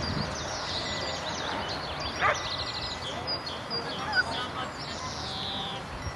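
Songbirds chirping and trilling, many short high calls overlapping, with one longer falling whistle near the end.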